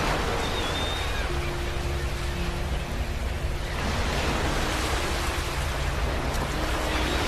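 Ocean waves breaking on a beach: a steady wash of surf that swells and eases, with waves surging near the start and again about four to five seconds in.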